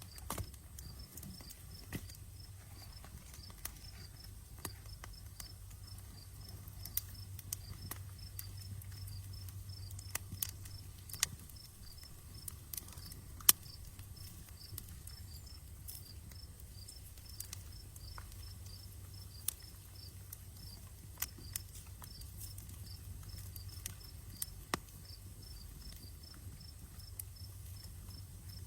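Outdoor campfire crackling, with irregular sharp pops, the loudest about halfway through, over a steady low rumble. Crickets chirp in an even rhythm in the background.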